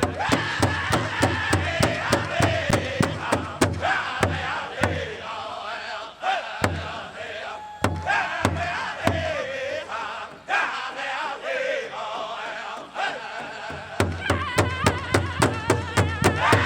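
Pow wow drum group singing a chicken dance song in high voices over a steady, fast beat on a big drum. The drumming drops to a few single strikes under the singing in the middle, then the steady beat picks up again near the end.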